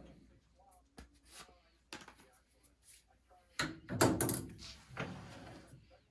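A benchtop metal lathe winding down at the start, then a few scattered knocks and clicks of metal handling, with the loudest clatter about four seconds in.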